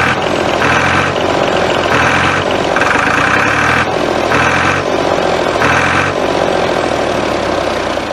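Tractor engine running steadily, its sound swelling and easing roughly every second and a bit.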